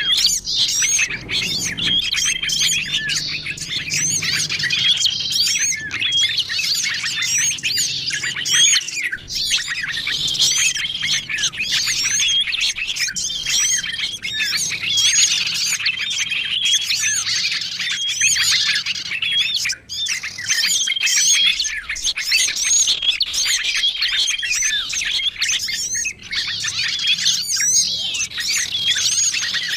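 A dense chorus of many small songbirds chirping and twittering at once: a bird-luring (pikat) recording that layers the calls of several small bird species. A short, level whistled note recurs every few seconds over the constant chatter.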